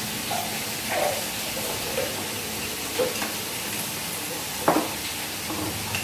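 Hotpot simmering with a steady hiss, with a few light clinks of utensils against bowls and the pot, the loudest a little after four and a half seconds in.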